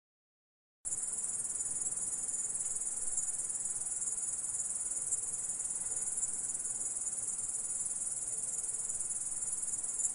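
Grasshopper stridulating: a continuous, very high-pitched buzzing trill that starts abruptly about a second in, out of total silence, and then holds steady.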